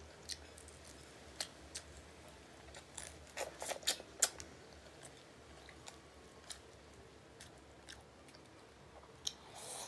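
Close-miked eating: a person biting and chewing cooked shrimp, with scattered crisp clicks and crunches, busiest and loudest about three to four seconds in.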